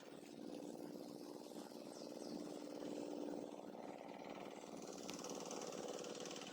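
A small engine running steadily and faintly, its level rising a little about halfway through.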